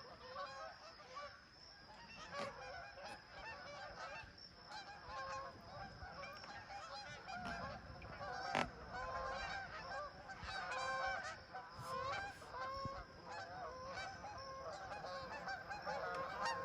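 A flock of waterfowl calling, many short overlapping calls, with a single sharp knock about eight and a half seconds in.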